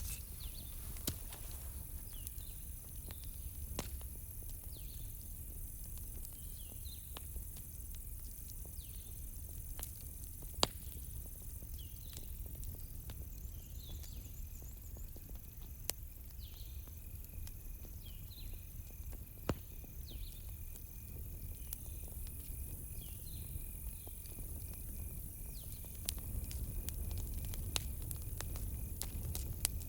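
Campfire crackling, with a few scattered sharp pops over a low rumble, growing louder near the end. Behind it, a short high chirp repeats about once a second and crickets trill steadily.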